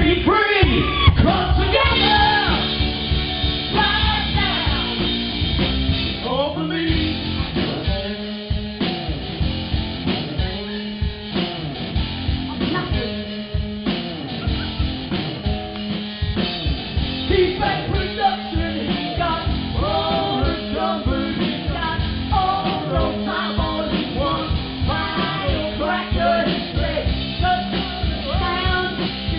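Live rock band playing a song: electric guitar, bass guitar and drum kit with sung vocals, amplified and loud.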